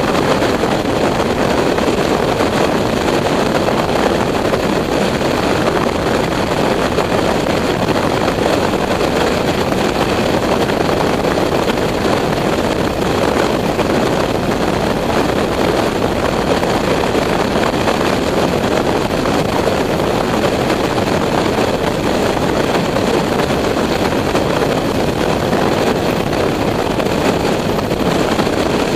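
Steady rushing noise of a motorcycle on the move, wind blowing over the microphone along with the engine, with no change in speed.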